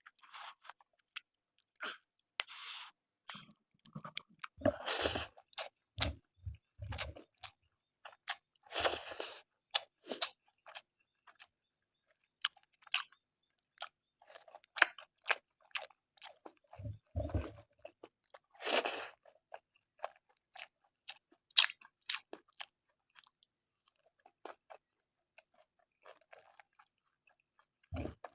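Close-miked eating: a person chewing and crunching through a mouthful of pork curry and rice, with wet mouth clicks and smacks in uneven bursts and a few longer chewing stretches. A few dull low thumps come in between.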